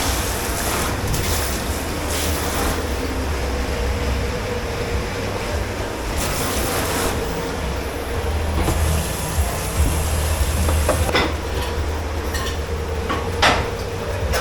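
Commercial dish pit running: a steady machine hum and low rumble, with several bursts of hissing, rushing noise and two sharp clatters of crockery in the last few seconds.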